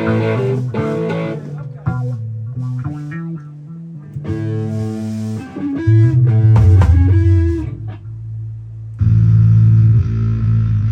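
Amplified guitar playing a riff, picked notes over held low notes with pauses between phrases, rolling from the minor to the major third.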